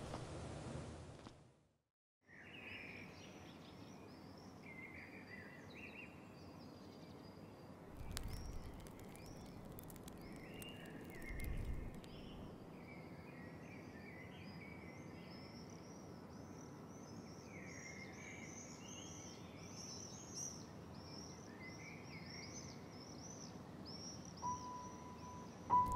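Many small birds chirping and twittering over a steady outdoor background hiss, with two brief low rumbles about a third of the way in.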